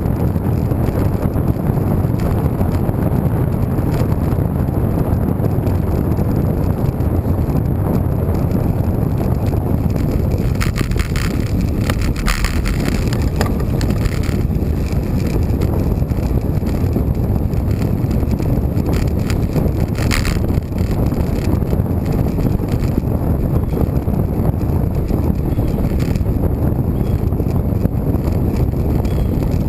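Wind buffeting the microphone of a camera on a moving road bike, a steady low rush, with faint ticking for a few seconds around the middle.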